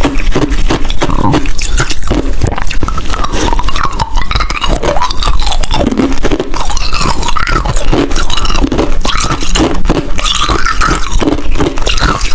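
Ice being bitten and chewed close to the microphone: a loud, rapid, unbroken run of sharp crunches and cracks.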